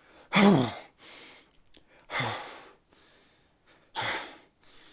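A person making short 'hurumph' noises with the voice, three times about two seconds apart: the first voiced with a falling pitch, the next two quieter and breathier.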